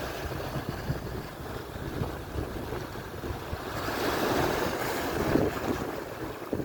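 Atlantic surf breaking and washing on the shore, with one wave swelling up about four seconds in and then easing off. Wind buffets the microphone with a low, uneven rumble.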